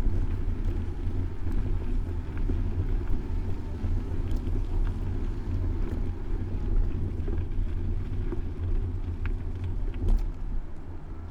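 Steady low rumble of wind on the microphone of a camera mounted on a moving bicycle, mixed with city traffic noise, with a few faint clicks.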